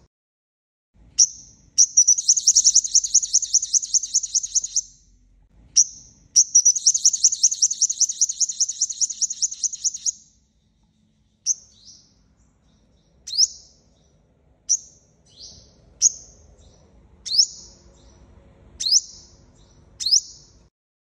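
Sunbird (the five-coloured sunbird of Vietnamese bird-trappers) calling: a few sharp high chirps, then two rapid trills of several seconds each, then single sharp chirps about every second and a half. This is a lure call used to draw wild birds to a trap.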